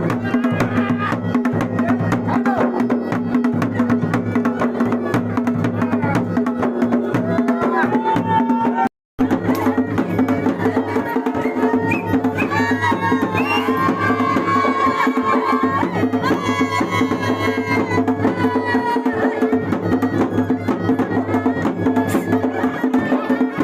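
Traditional Garhwali folk dance music: fast, dense drumming over a steady drone, with a wavering melody above it. The sound cuts out for a moment about nine seconds in.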